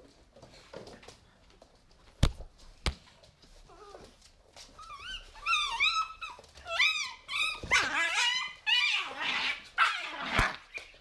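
Three-month-old pit bull puppies playing: two sharp knocks, then a run of high, wavering whines and yelps that turn into louder, harsher barks near the end.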